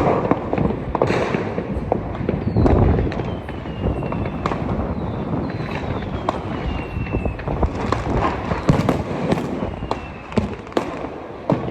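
Firecrackers and fireworks going off continuously, with a dense run of bangs and crackles. Three thin whistles fall in pitch over a second or two each, one after another.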